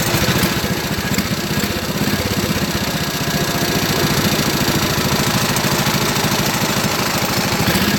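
Pulling tractor's engine idling steadily, a rapid even beat of firing pulses with no revving.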